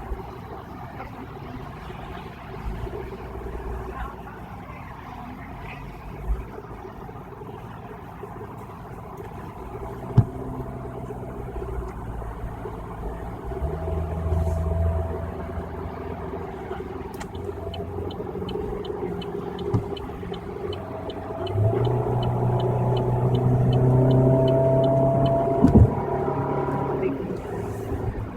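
Car running on a rainy highway, heard from inside the cabin: steady road rumble and engine, the engine getting louder about three-quarters of the way in. Over the second half a turn signal ticks steadily about three times a second for around ten seconds, with a couple of single knocks from the car.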